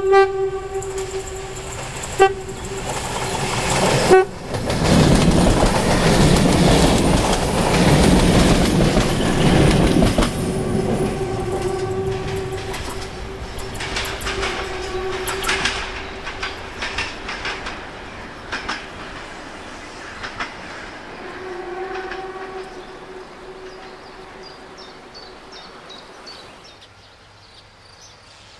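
Class 614 diesel multiple unit passing close by: its horn blast ends just at the start, with short toots about two and four seconds in. Then comes the loud rush of the train going past, wheels clicking over the rail joints as it draws away and fades, with another fainter horn call late on.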